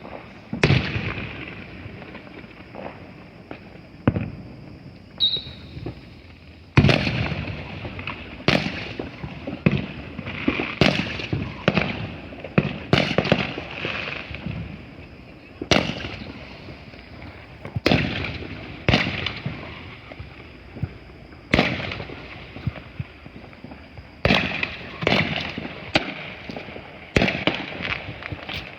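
Consumer fireworks going off around a neighborhood: a long string of sharp bangs and booms at irregular intervals, each trailing off in an echo, coming faster in the last few seconds.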